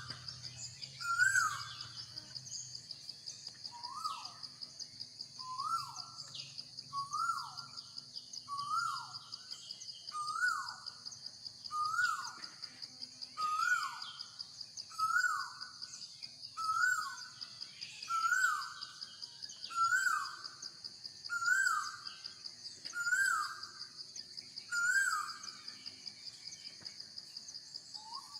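A bird calling over and over, one short falling call about every second and a half, over a steady high-pitched insect drone.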